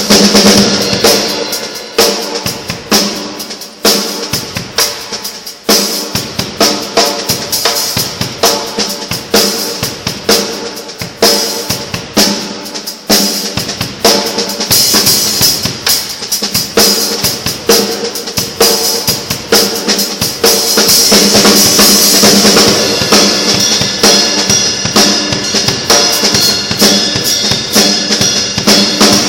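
Drum kit played in a fast, busy groove with bass drum, snare and cymbals. About two-thirds of the way in, the cymbals ring louder and more continuously.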